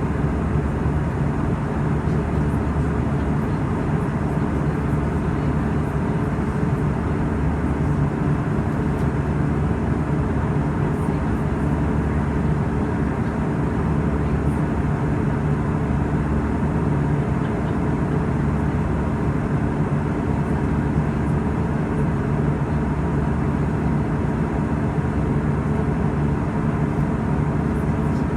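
Airbus A320 cabin noise: the steady drone of the jet engines and airflow, with a few low steady hums, unchanging throughout.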